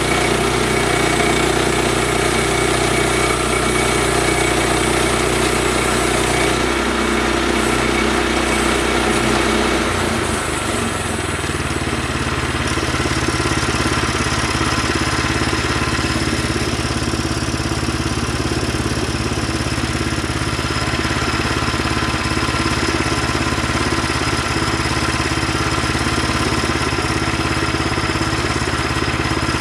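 An engine running steadily. About ten seconds in its note shifts lower, then it carries on steady.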